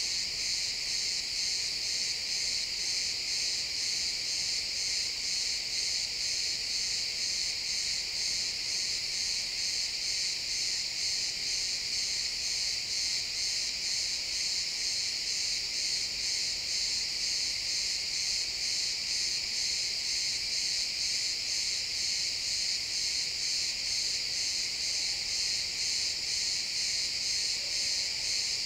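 Crickets chirping in a dense, steady chorus: a high, evenly pulsing trill that keeps on without a break.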